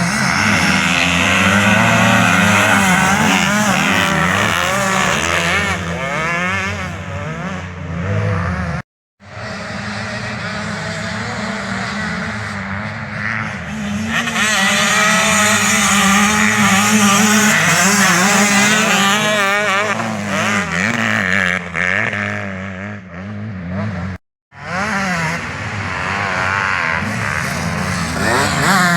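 Several motocross bikes racing, their engines revving up and down over one another in quick, overlapping sweeps. The sound cuts out abruptly for a moment twice, about nine seconds in and about three-quarters of the way through.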